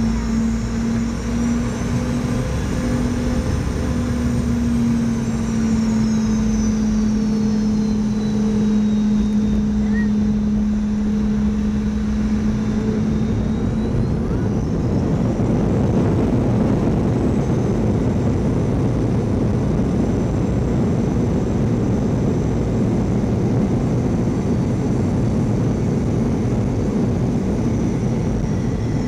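Boeing 717's Rolls-Royce BR715 jet engines heard from inside the cabin: a steady low hum under a high whine that falls, then rises again about halfway through as a louder roar builds and holds.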